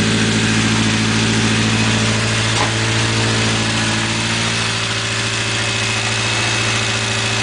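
1980 Triumph Spitfire 1500's four-cylinder engine idling steadily shortly after a cold start on a freezing day.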